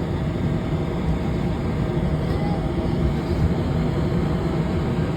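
Steady low rumble of a VRE commuter train standing at the station platform.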